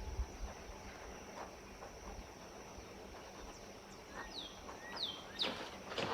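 Outdoor ambience: a steady high-pitched insect drone, with a few short bird chirps falling in pitch about four seconds in and a quick cluster of sharper sounds near the end.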